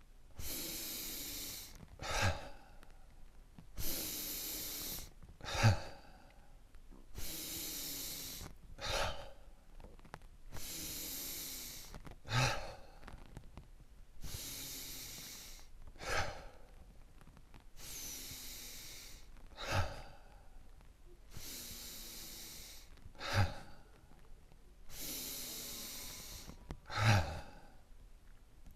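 A person breathing rhythmically in a sigh-breath exercise, at a quickened pace: each cycle is a breathy hiss about a second long, then a short, sharp sighing out-breath. The cycle repeats about every three and a half seconds, eight times.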